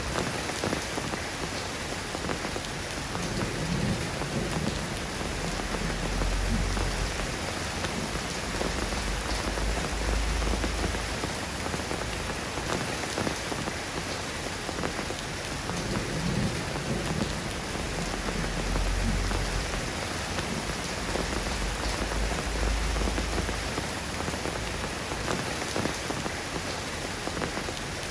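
Steady rain falling on a surface, with low rolls of thunder rumbling underneath several times.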